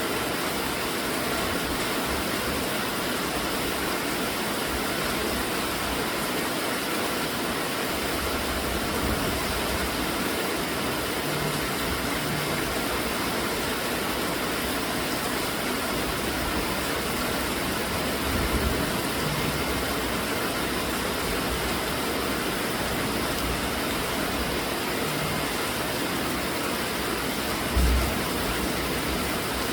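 Steady rainfall, an even unbroken hiss, with two brief low thumps in the second half.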